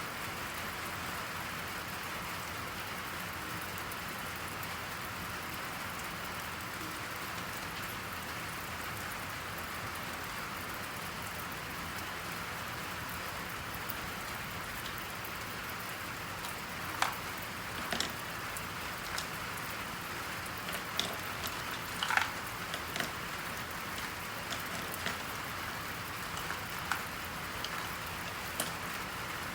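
Steady rain, an even hiss, with a scattering of brief sharp ticks and taps through the second half.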